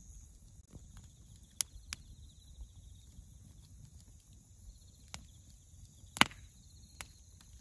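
Wood campfire of dry firewood crackling, with a few sharp, scattered pops. The loudest comes about six seconds in, and the speaker wonders whether the pops come from moisture in the wood. Bell crickets chirr steadily in the background.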